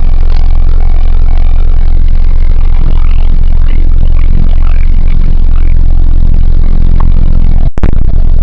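1998 Nissan Eagle pickup's engine running with a loud, steady low drone; the sound drops out briefly near the end.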